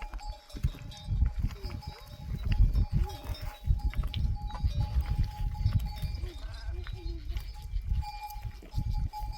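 A flock of sheep and goats with bells ringing steadily, and a few short bleats, under a loud low rumble.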